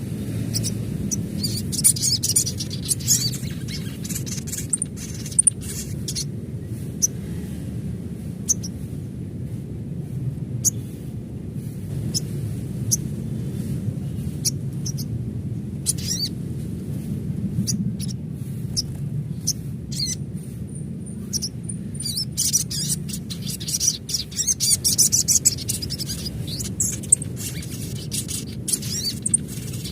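Sunbird calling: quick, high-pitched twittering chirps in clusters, densest a couple of seconds in and again in the last third, over a steady low background hum.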